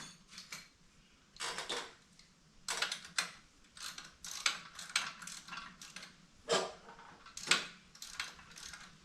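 Hand socket ratchet clicking in short, irregular bursts as 14 mm bolts are run in and tightened on the jack's steel frame.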